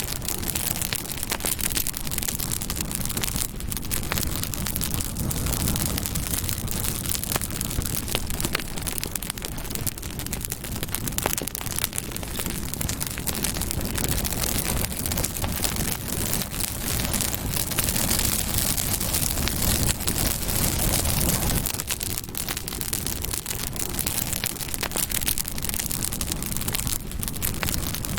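Campfire burning steadily, the wood crackling with many small sharp pops over a constant rushing hiss of flame.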